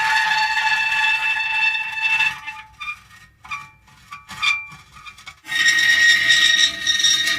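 Metal creaking: a long, steady-pitched squeal that breaks off a little over two seconds in, then a few short creaks and clicks, then a second long squeal from about five and a half seconds in.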